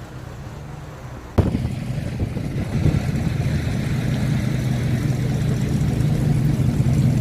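A vehicle engine idling steadily. It comes in suddenly with a sharp click about a second and a half in.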